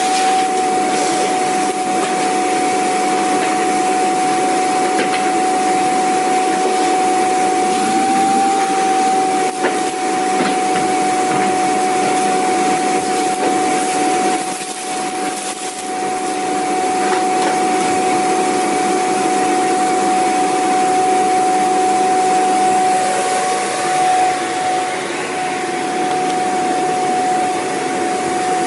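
Vacuum cleaner running steadily, a constant rushing of air with a strong high whine from the motor. The level dips slightly for a moment about halfway through and again near the end.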